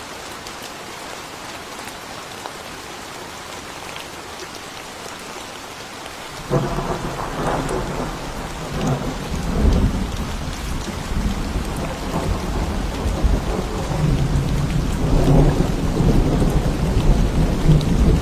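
Steady rain falling, then about six and a half seconds in a sudden clap of thunder breaks out and rolls on as a long low rumble, growing louder near the end.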